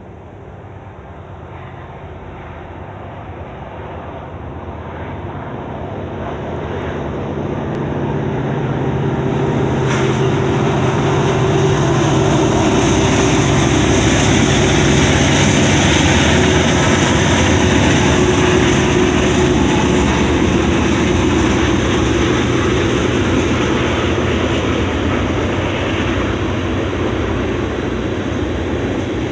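CN SD70ACe-P6 and C40-8 diesel locomotives approach and pass, their engine drone growing steadily louder. A loaded string of covered sand hopper cars then rumbles by on the rails. A high steady whine joins about ten seconds in and stays through the pass.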